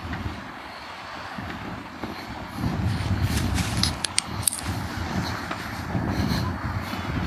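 Outdoor seaside ambience: a steady wash of noise with a low, uneven rumble that swells about two and a half seconds in, and a few brief high clicks about four seconds in.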